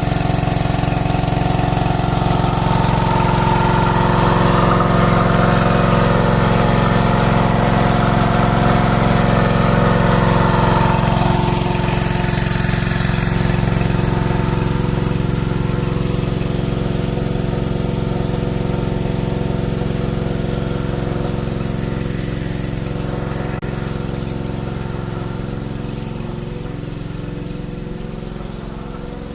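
Husqvarna W80P 3-inch water pump's petrol engine running steadily, and growing gradually quieter over the second half.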